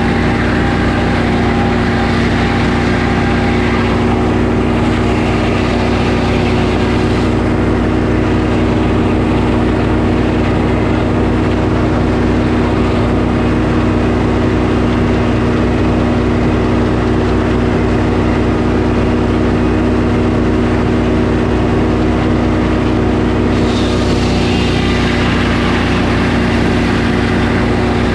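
Sawmill engine running steadily as the mill saws boards from a pine log, with a hiss over it that thins about seven seconds in and returns near the end.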